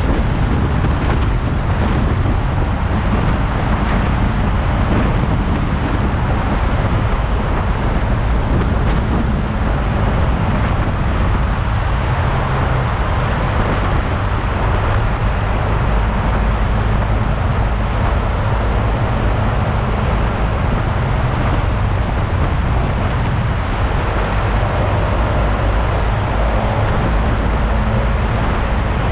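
Motorcycle engine running steadily while riding along, with steady road and wind noise.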